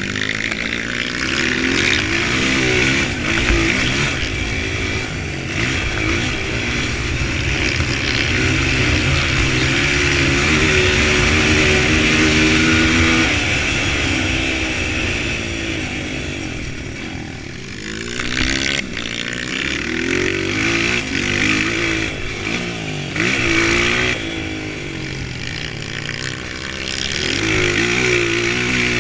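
Dirt bike engine revving up and down, its pitch rising and falling again and again, loudest around the middle.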